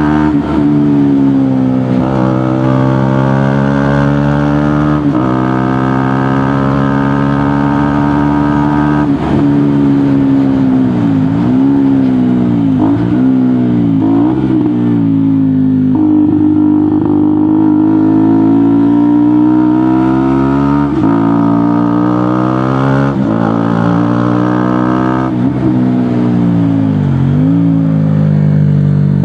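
2018 KTM Duke motorcycle engine through an aftermarket GPR exhaust, accelerating through the gears: the pitch climbs steadily and drops sharply at each upshift. Around the middle it dips and picks up again several times in quick succession as the throttle is rolled off and back on.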